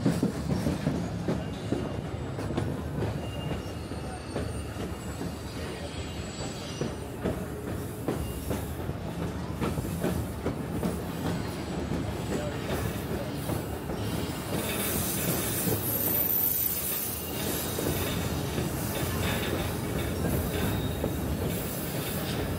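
Narrow-gauge passenger train running around a curve: a steady rumble of wheels on the rails, with high wheel squeal from the curve, brightest about two-thirds of the way in.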